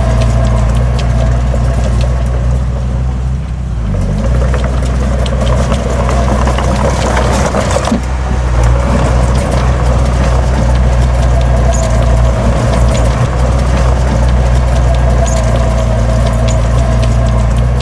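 Heavy diesel engine of earthmoving machinery running steadily, with many metallic clanks and rattles throughout. The engine drops briefly about four seconds in, then comes back up. It is louder and rougher for a few seconds after that.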